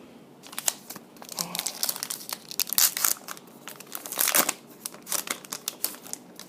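Trading card pack wrapper being torn open and crumpled by hand: a run of irregular crinkling and crackling that starts about half a second in and dies away near the end.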